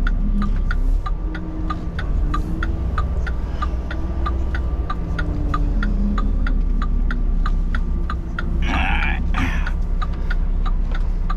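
Semi truck's diesel engine running low in the cab during slow backing, with a rapid, even ticking of about five a second over a faint steady high tone. Two short hisses come about nine seconds in.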